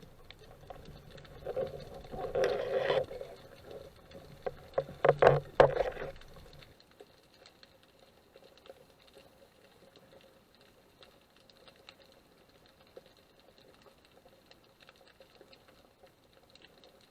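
Water noise picked up by a camera in the sea: irregular sloshing and splashing bursts with a few sharp clicks for about the first six seconds, then only faint crackling and ticking.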